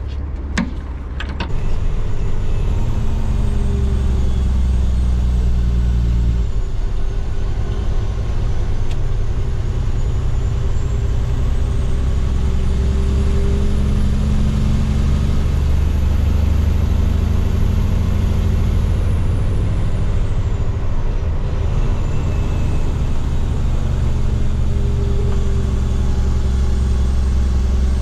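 Heavy diesel truck engine running at road speed, heard from inside the cab: a steady low drone whose pitch shifts a few times, with a faint high whistle rising and falling above it. A few sharp clicks sound in the first second or so.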